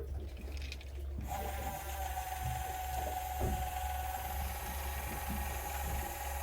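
Small electric wakasagi fishing reel winding in line: a steady motor whine with gear whirr that starts abruptly about a second in, over a constant low hum.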